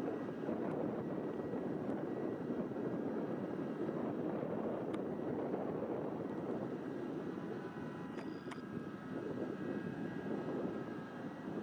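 Jet airliner engines running, a steady noise with faint whining tones above it. A brief high tone about eight seconds in.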